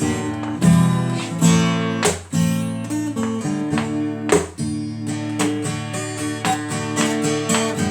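Acoustic guitar strumming chords with no voice, a fresh strum every second or so.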